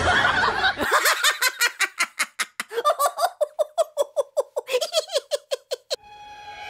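A person giggling in a long, fast run of short high-pitched laughs, about six a second, that stops suddenly near the end, where steady musical tones take over.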